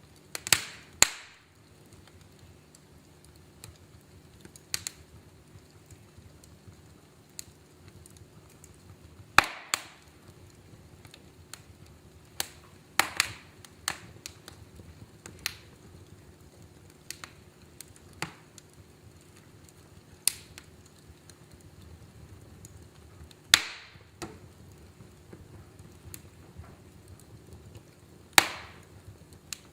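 Wood fire crackling in a fireplace: sharp, irregular pops and snaps a few seconds apart, a handful of them loud, over a faint steady low hiss of the burning.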